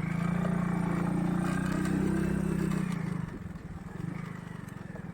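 Motorcycle engine running hard for about three seconds, then easing off to a lower, steady throb.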